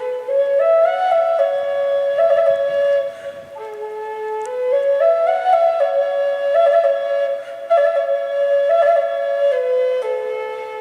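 Background music: a solo flute playing a slow melody of held notes that step up and back down in two similar phrases, fading out at the end.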